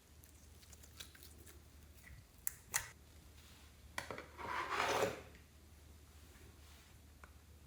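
Slime being handled and mixed: two sharp sticky clicks about two and a half seconds in, then about a second of wet crackling squish.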